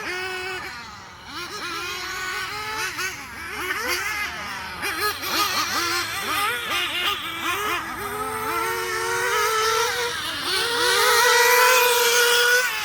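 Rebuilt Spower S7 nitro engine on its test run, revving up and down in quick throttle blips, then held at high revs for a couple of seconds near the end before dropping back.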